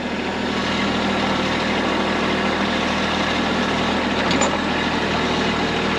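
Tractor engine running steadily while the tractor is driven, a constant hum.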